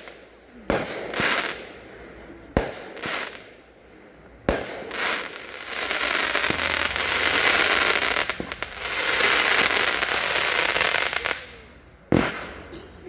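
Consumer fireworks cake firing comet shots. Sharp bangs come about every two seconds, then a continuous rush of noise lasts about five seconds from roughly six seconds in, and one more bang comes near the end.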